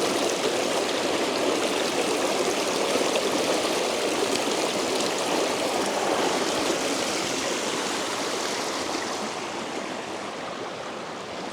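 A fast-flowing river rushing steadily over rocks, growing a little quieter near the end.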